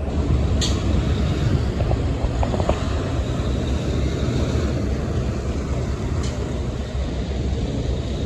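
Steady low rumble of vehicle road noise, with two brief sharp clicks, one about half a second in and one near six seconds.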